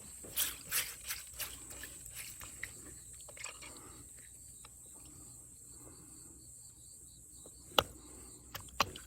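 Small natural stones clicking and knocking against each other as they are set in place. There are a few quick knocks in the first two seconds and two sharp ones near the end.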